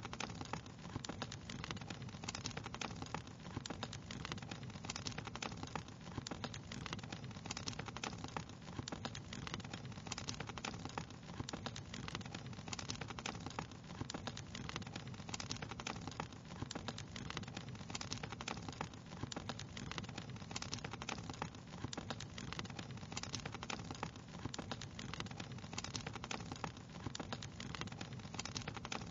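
Wood fire crackling: a steady low rumble with a constant scatter of sharp pops and snaps.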